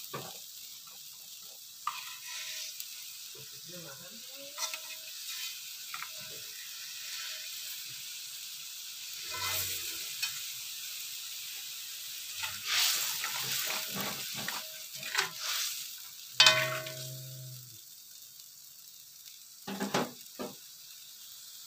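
Blended chili and shallot spice paste sizzling steadily as it fries in a metal wok, cooked until fragrant, with a metal spatula scraping and knocking against the wok now and then.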